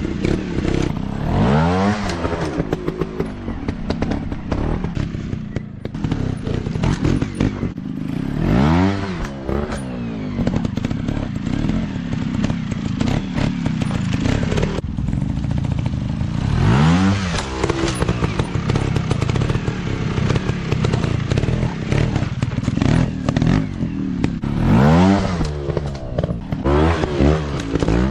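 Dirt bike engines revving hard in repeated bursts, the pitch climbing and falling back about four times, over a steady running engine and scattered clatter and knocks.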